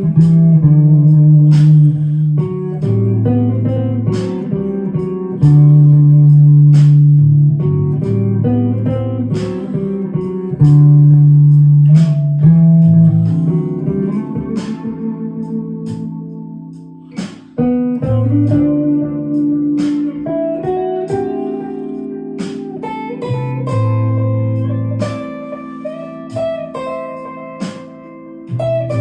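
Clean-toned electric guitar improvising in A minor: plucked single-note lines and chords over sustained low notes that change every second or two.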